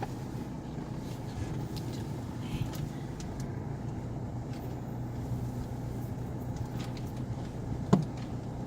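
Vehicle engine running steadily with a low hum, with one sharp knock near the end.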